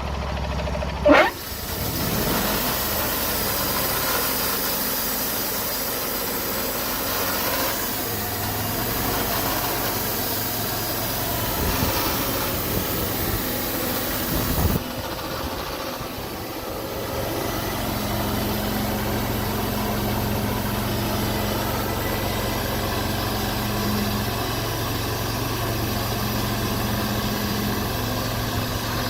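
Wood-Mizer LT40 portable bandsaw mill's engine running steadily. A loud brief sweep sounds about a second in, and the sound changes abruptly about halfway through.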